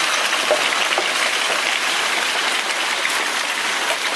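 Hail mixed with rain pelting down: a dense, steady hiss with scattered sharper ticks of individual hailstones striking.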